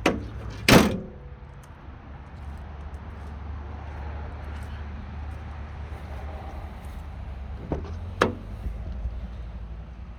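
A 1989 Toyota pickup's tailgate slamming shut about a second in, just after a lighter knock. Two more lighter knocks follow near the end, over a low steady rumble.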